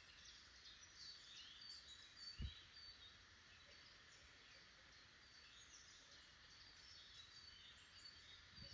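Faint woodland birdsong: many short, high chirps and calls from small songbirds overlapping throughout, over a soft hiss. A single brief low thump comes about two and a half seconds in.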